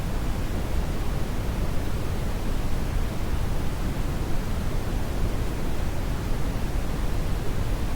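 Steady brown noise: an even, deep rushing hiss, heaviest in the low end, with no change or events.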